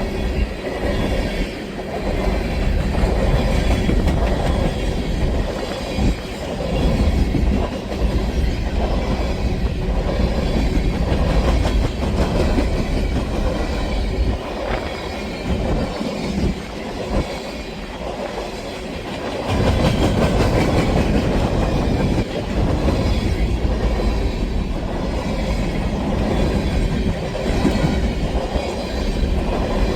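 Freight train rolling past, its cars clattering steadily over the rails.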